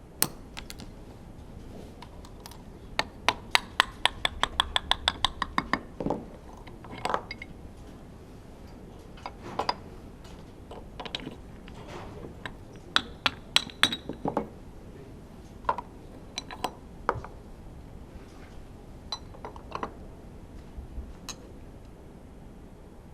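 Metal tools and engine parts clinking as a Honda F1 engine is disassembled: a quick run of ringing metallic clicks a few seconds in, then scattered single clinks and taps.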